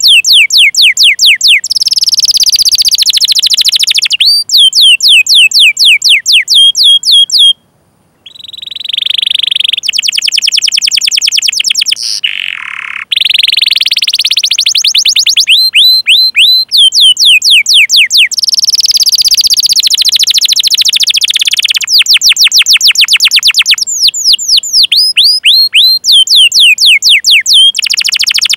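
Domestic canary singing: runs of quick, high, downward-sweeping 'cuit cuit' call notes alternating with dense rolling trills, with a brief break about seven and a half seconds in.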